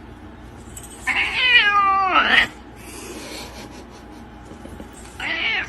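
A cat meowing twice: one long meow that drops in pitch at its end, then a shorter one near the end.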